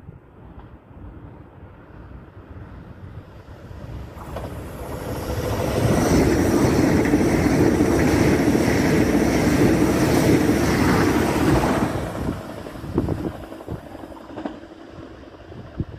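A Trenitalia Frecciarossa high-speed electric train passing straight through the station at speed. Its rushing noise builds over a few seconds, stays loud for about six seconds as the coaches go by, then fades away, with a few short knocks as it recedes.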